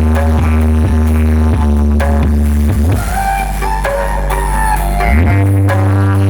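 Electronic DJ dance mix played loud through a large party sound-system rig, with deep held bass notes that slide to new pitches about three and five seconds in, under a regular beat.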